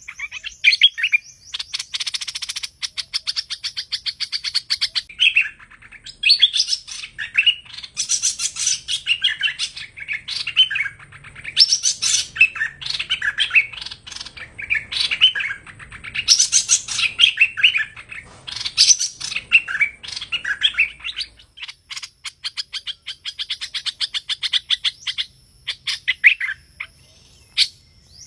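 A songbird, the species Vietnamese keepers call hoành hoạch, singing a long, varied run of chirps and whistled phrases with fast rattling trills. It is played as a lure call for trapping.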